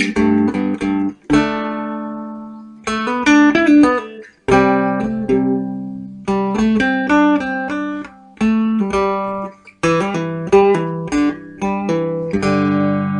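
Background music: an acoustic guitar picked note by note in short phrases, each note ringing out and fading, with brief breaks between phrases.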